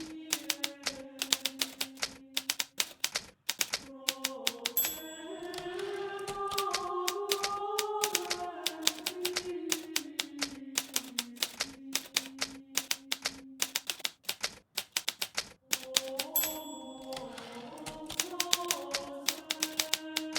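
Hermes Baby portable typewriter typing in quick runs of keystrokes. A short ring sounds twice, about 5 and 16 seconds in, each time followed by a brief pause in the typing. A soft, slow melody of background music plays underneath.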